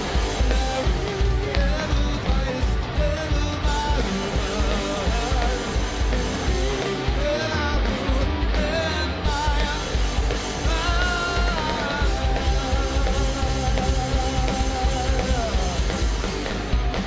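Live rock band playing a song at full volume, with distorted electric guitars, bass and drums under a sung lead vocal.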